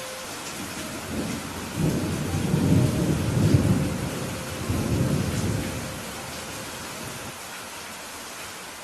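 Steady rain with thunder rumbling in from about two seconds in, swelling twice and dying away by about six seconds.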